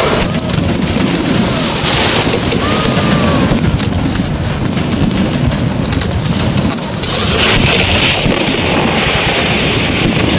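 Fireworks display going off in quick succession: a continuous rumble of booms with many sharp bangs, turning to a denser, brighter crackle about seven seconds in.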